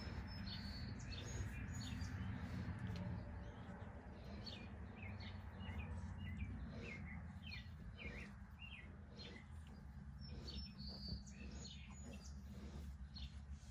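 Birds chirping and singing, many short high chirps one after another, over a low steady rumble.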